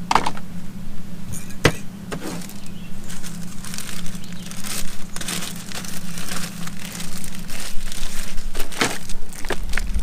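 Rustling and crinkling with scattered clicks and knocks of small objects being handled and moved around, over a steady low hum.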